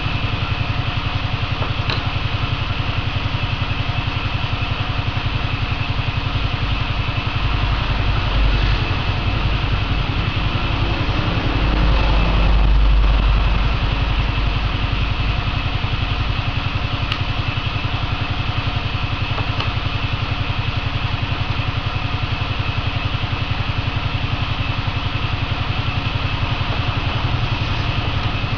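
A motor or engine running steadily with a fast, even pulse, swelling briefly twice, about eight and twelve seconds in.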